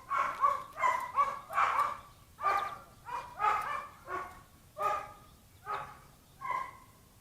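A dog barking repeatedly, about a dozen short barks in a steady series that stops shortly before the end.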